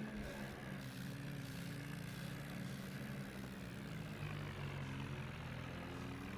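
Tractor engine running steadily, its pitch rising and falling slightly.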